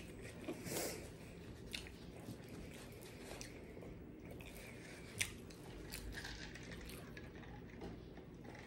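Quiet close-up chewing and mouth sounds of someone eating fried food, with a few soft clicks. Near the end, a sip through a plastic straw.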